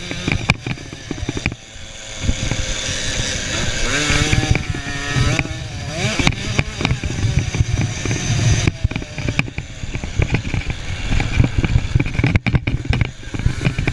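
Small 50cc motocross bikes, KTM 50s, running on the track, with an engine revving up and down in pitch about halfway through.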